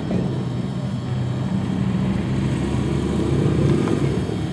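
Victory Cross Country motorcycle's V-twin engine running under a two-up load, getting a little louder about three and a half seconds in.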